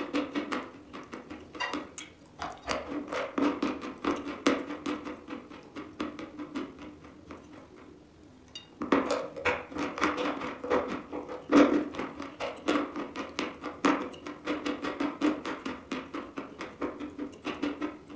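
Chewing a bitten piece of chalk coated in black cream: dense crunching and crackling that eases to quieter chewing about six seconds in and grows loud again about nine seconds in.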